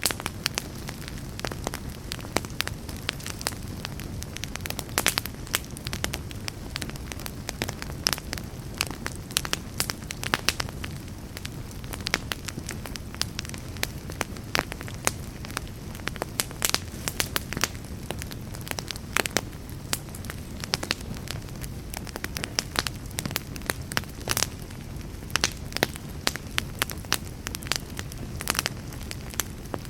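Campfire burning steadily, with frequent irregular sharp crackles and pops over a low rumbling hiss.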